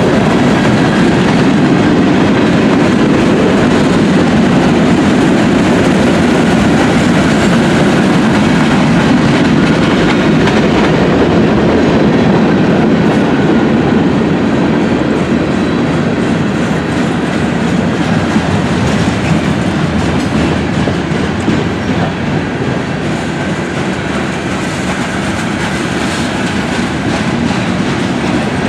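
Train cars rolling steadily past, their wheels clacking over the rail joints under a continuous rumble that eases slightly about halfway through.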